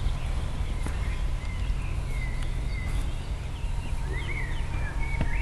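Small birds chirping and singing in short gliding phrases, over a steady low rumble.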